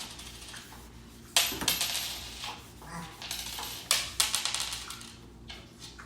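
Hard items clattering and clinking as they are handled and set down, with two sharp clatters, about a second and a half in and again near four seconds, each trailing off into rattling clicks.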